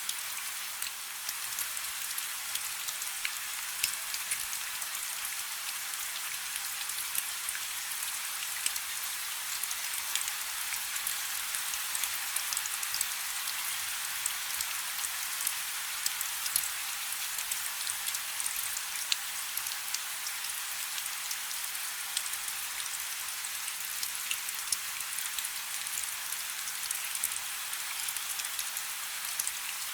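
Steady rain falling on a river: an even hiss of drops on the water, dotted with frequent sharp ticks of single drops.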